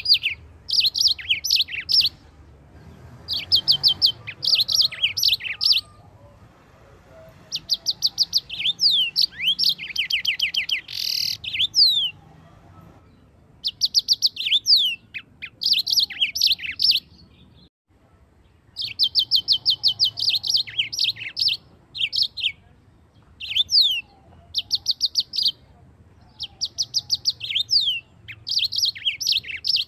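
Yellow-fronted canary (Mozambique canary) singing: phrases of fast, repeated high chirps and trills, broken by short pauses.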